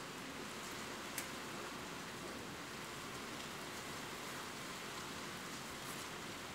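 Steady rain falling, with an occasional single sharper drop tapping, most clearly about a second in.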